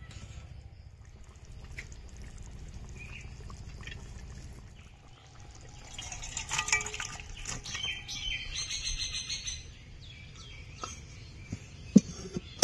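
Small birds chirping over a low steady hum, with a few light clicks and knocks, the sharpest near the end.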